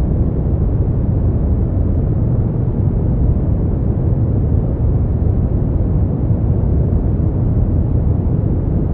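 Continuous sleep-aid noise: an even, unchanging hiss that is deep in tone, strongest in the low end and fading out toward the high end.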